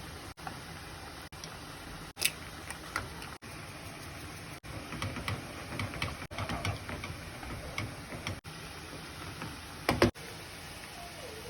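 Cooking sounds at a pan: a steady low hiss with scattered clicks and light taps of utensils, and a sharp knock about two seconds in and another near the end.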